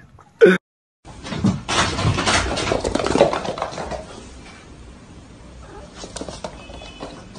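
Domestic cat making a harsh, noisy vocal sound for about two and a half seconds after a short silent gap. It then drops to a quieter stretch with a few light taps.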